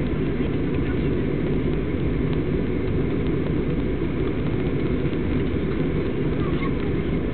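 Steady low engine noise heard inside an aircraft cabin in flight, unchanging throughout.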